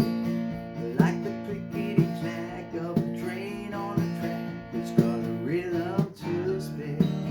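Acoustic guitar strummed in a steady rhythm, with a strong accented strum about once a second over ringing chords.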